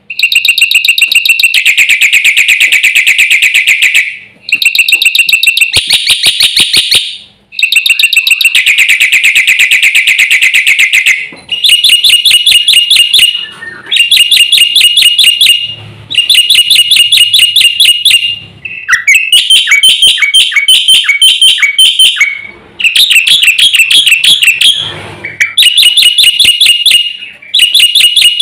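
Black-winged myna (jalak putih) singing loudly in long bursts of rapid, harsh repeated notes, about nine phrases with short pauses between them.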